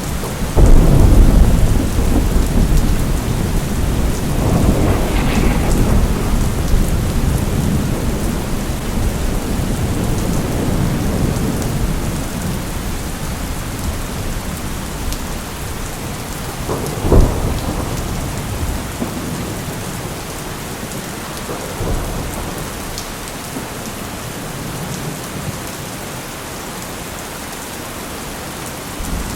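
Steady rain with thunder. A loud rumble starts about a second in and rolls on, slowly fading over the next ten seconds or so. A sharper clap comes a little past halfway, a fainter one follows, and another rumble begins at the very end.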